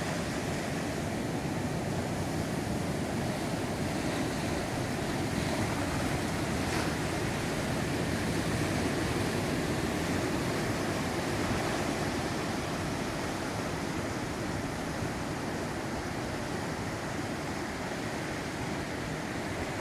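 Heavy ocean surf during a mar de leva swell surge: a continuous wash of breaking waves on the beach, swelling slightly in the middle and easing a little near the end.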